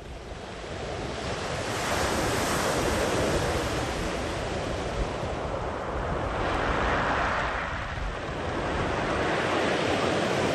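Sea waves rolling in and breaking on the shore, the wash building over the first two seconds and surging again about seven seconds in.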